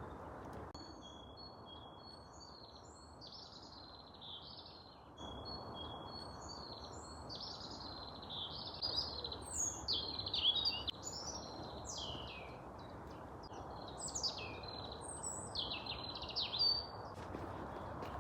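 Songbirds singing: short thin high notes at first, then from about halfway louder, quick varied phrases with rapid downward-sweeping notes, over a steady background hiss.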